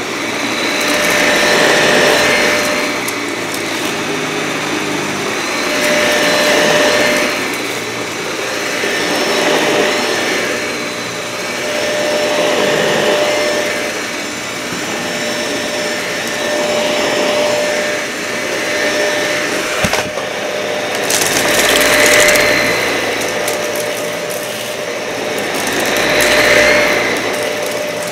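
Dyson vacuum cleaner running on carpet, its steady motor sound swelling and fading about every four seconds as it is pushed and pulled in strokes. There is a sharp click about twenty seconds in, and the last two strokes sound brighter and hissier.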